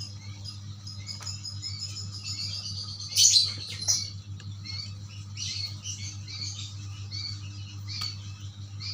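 Barn owl calling with high, hissing screeches and short chirps, loudest a little after three seconds in, over a steady low hum.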